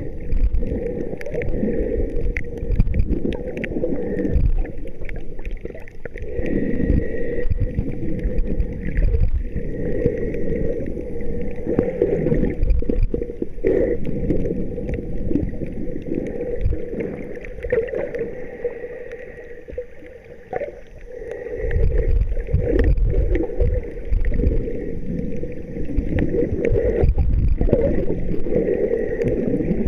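Muffled water sloshing and gurgling, rising and falling in waves, with a quieter stretch about two-thirds of the way through.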